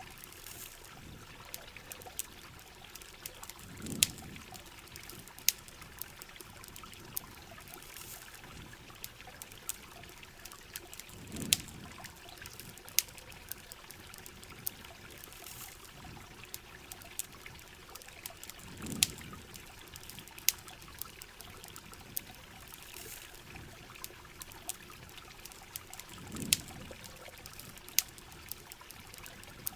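Steady hiss of heavy rain and flowing river water, with the sharp crackles and pops of a wood campfire scattered through it. A low whooshing swell with a louder pop comes back about every seven and a half seconds, as in a looped mix.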